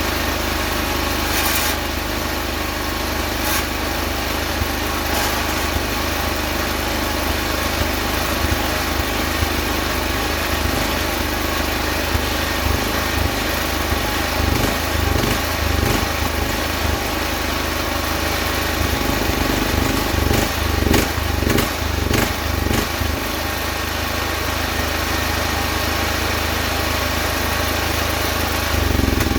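Small engine running steadily, its note wavering unevenly for several seconds past the middle, with a few sharp ticks.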